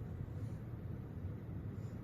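Steady low rumble inside a maglev train carriage, even and unchanging.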